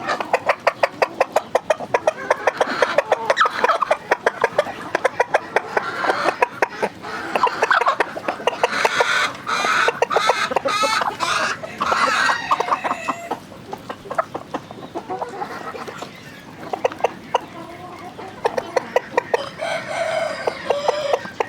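A flock of chickens clucking, with rapid runs of short repeated calls.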